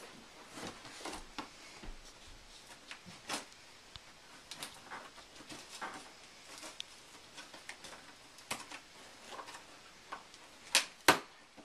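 Scattered small clicks, scrapes and rustles of a cardboard toy box being handled and opened, with two sharper knocks near the end.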